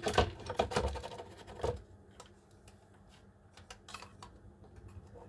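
Rapid clicking and clattering of small hard plastic items being handled and set down, busiest in the first two seconds, then a few scattered clicks.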